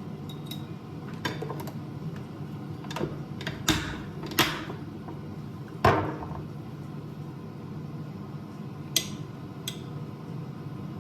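Kitchen clatter: a handful of sharp knocks and clinks of dishes or utensils being handled, the loudest near the middle with a brief ring, over a steady low hum.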